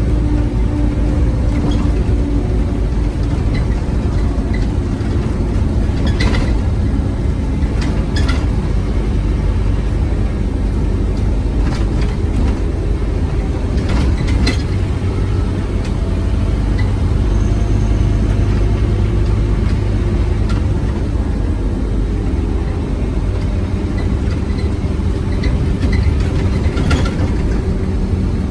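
Scania OmniCity bus's diesel engine running steadily under way with a deep low rumble. A few sharp clicks or rattles are scattered through it.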